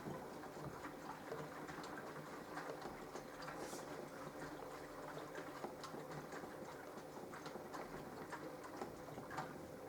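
Mini washing machine running a wash phase on its gentle bra program: the motor turns the drum with a steady hum while water and fabric make irregular ticking and pattering. It starts with a click and stops after about ten seconds.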